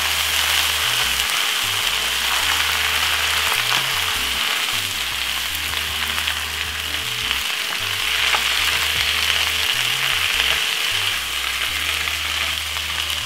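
Spinach and mixed vegetables sizzling steadily in hot oil in a frying pan while a wooden spatula stirs them.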